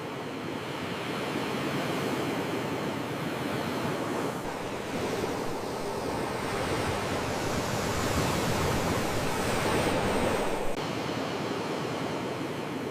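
Sea waves washing onto a shore: a steady surf noise that swells over several seconds and eases off about two seconds before the end.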